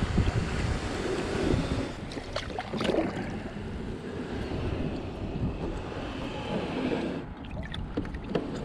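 Wind buffeting the microphone over waves lapping at the shore, with a few short knocks about two and a half and three seconds in.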